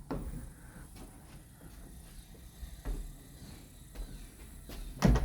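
Footsteps and handling noise: a few soft, low thumps spaced a second or so apart, with a short, louder knock near the end.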